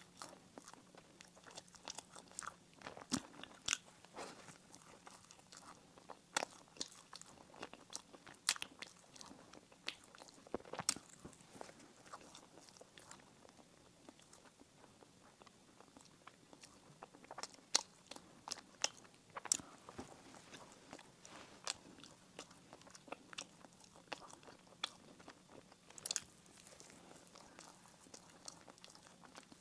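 Close-miked eating sounds: biting and chewing bread and pastry, with irregular sharp crunches and mouth clicks.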